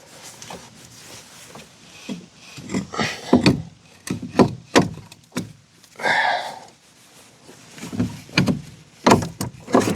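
Metal tools and suspension parts knocking and clanking during hand work on a car's front strut assembly. The knocks come irregularly, with a short scrape about six seconds in and a quick run of sharp knocks just after nine seconds.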